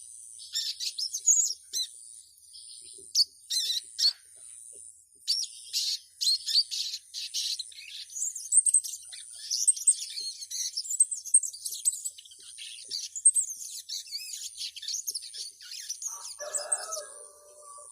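Female sogon sunbird calling a male: rapid, thin, high-pitched chirps and twitters in quick runs with brief pauses. Near the end a lower, steadier call briefly joins in.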